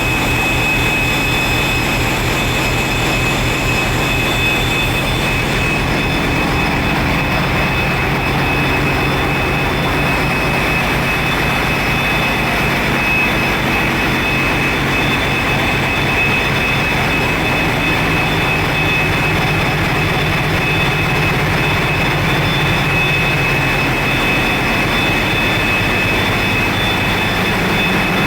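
Large Wärtsilä 18V46 diesel generator engines running steadily: a loud, even drone with a fine rapid pulse underneath and a constant high-pitched whine on top.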